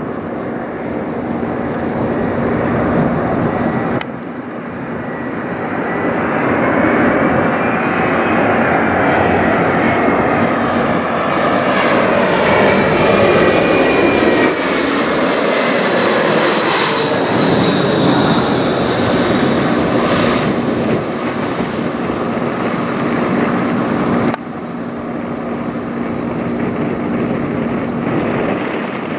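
Embraer E170 regional jet passing overhead, the noise of its twin turbofan engines swelling to a peak near the middle, where a high whine falls in pitch, then easing off as it moves away.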